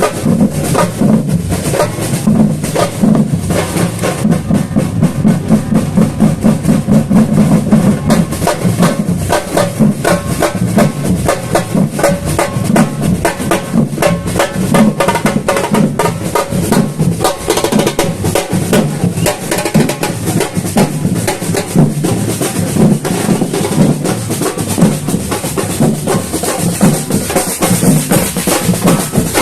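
Samba batucada drum ensemble playing: deep bass drums under snares and other hand percussion in a fast, dense, unbroken rhythm.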